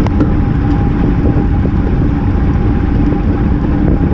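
Wind rushing over an action camera's microphone on a road bike riding at race pace, with a steady hum running under it.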